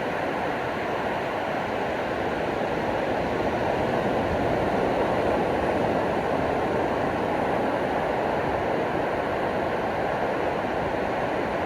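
Ocean surf washing on the shore in a steady, continuous rush.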